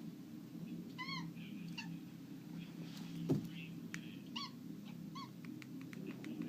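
Bengal cat giving several short, arched chirping meows, about three over a few seconds, over a steady low room hum, with a few faint clicks near the end.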